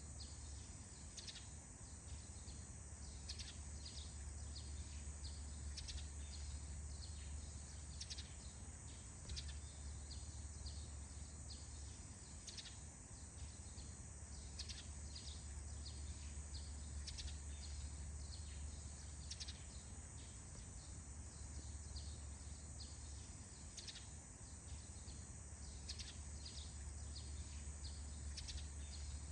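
Faint forest dawn chorus: small birds giving many short, repeated chirps, over a steady high insect-like hiss and a low rumble of soft wind.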